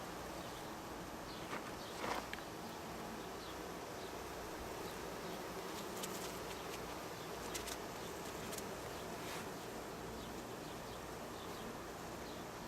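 Honeybees buzzing steadily from an opened hive, a colony busy on its frames, with a few faint clicks.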